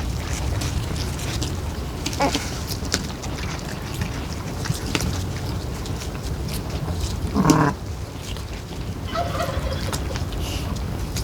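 A short farm-animal call about seven and a half seconds in, with a few weaker calls near the end, over a steady low rumble and scattered small knocks.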